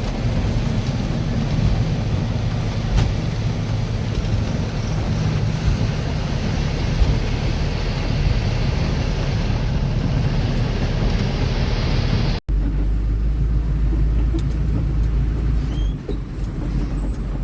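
Ashok Leyland Ecomet truck's diesel engine and road noise inside the cab, a steady rumble with hiss. About twelve seconds in it cuts abruptly to a deeper, steadier engine hum with less hiss.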